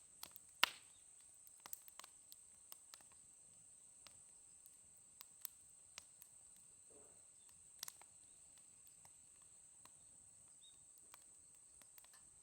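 Wood fire crackling in a fire pit: scattered sharp pops and snaps, one louder snap under a second in, over a faint steady high-pitched whine.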